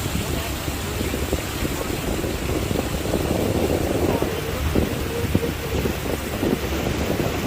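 A boat under way: its motor running steadily under the rush of water, with wind buffeting the microphone.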